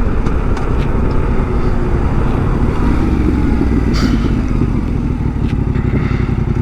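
Yamaha Ténéré 700's parallel-twin engine running steadily while the bike is ridden, with a broad rushing noise under it.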